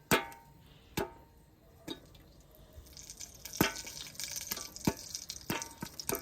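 Popcorn kernels popping in a covered pot: single sharp pops about a second apart at first, then from about three seconds in more frequent pops over a steady sizzling crackle.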